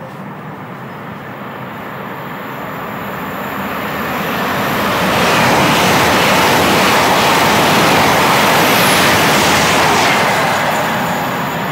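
Train passing at speed: a rushing noise of wheels on rail that builds over a few seconds, stays loud for about five seconds, then starts to fade near the end.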